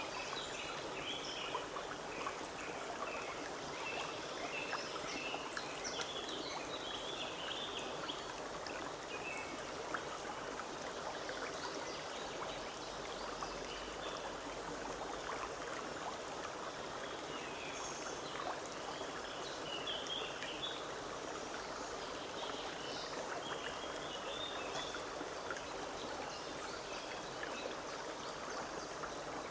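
Forest stream running steadily with an even rushing babble, while a bird chirps in short high bouts now and then over it.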